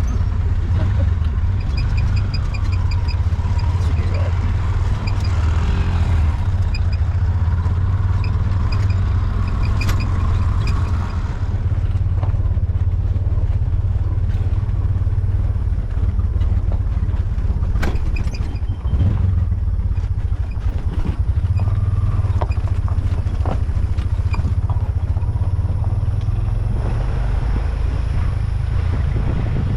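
Tuk-tuk (auto-rickshaw) engine running steadily on the move, with a heavy low rumble and occasional clatters and knocks from the ride.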